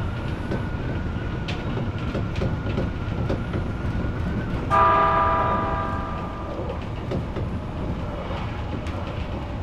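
Odakyu electric train running on the rails with a steady low rumble and wheel clicks. About five seconds in, a short train horn sounds loudly and fades away over about a second.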